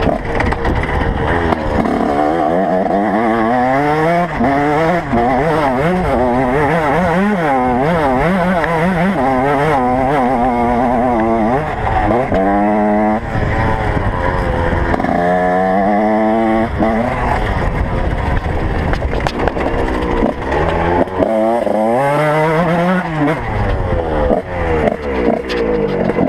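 Several motocross bikes revving hard, their engine notes climbing and dropping over and over as they shift and overlap one another. A few times a single bike's note climbs sharply as it accelerates.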